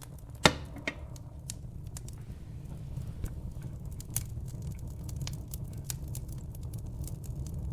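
Fireplace fire crackling: a steady low rumble of burning under scattered sharp pops, with one loud pop about half a second in.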